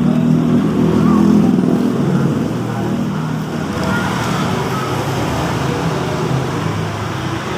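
Steady road traffic noise with a low engine hum, loudest in the first two seconds.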